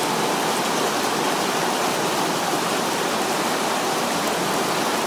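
Heavy rain and small hail coming down in a steady, unbroken downpour in a severe thunderstorm.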